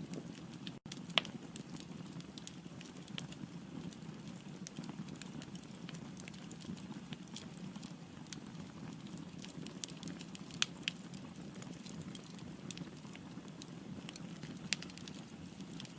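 Firewood burning in a fireplace: a steady low rumble of flame with scattered crackles and sharp pops, the loudest about a second in, again around two-thirds through and once more near the end. The sound cuts out for an instant just before the first loud pop.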